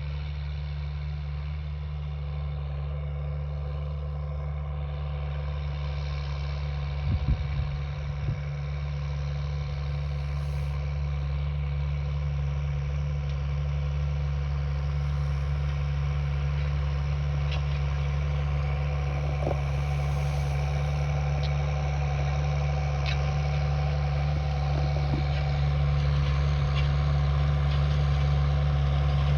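Large farm tractor's diesel engine running steadily as it pulls a disc harrow, growing gradually louder.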